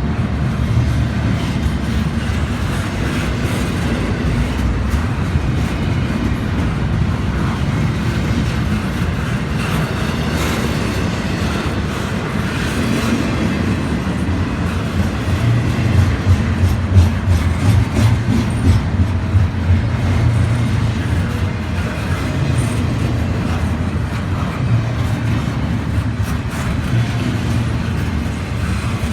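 A train's cars rolling past close by, in a steady heavy rumble with the wheels clacking over the rail joints. The rumble gets louder for a few seconds just past halfway.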